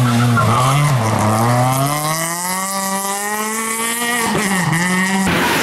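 Rally car engine under hard acceleration. After a brief dip about half a second in, its note climbs steadily for about three seconds, then drops as the throttle comes off. The sound cuts off abruptly near the end.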